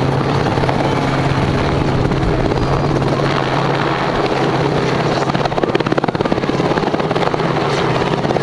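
Helicopter overhead: a steady rotor and engine drone, with a rapid blade chop growing stronger through the second half.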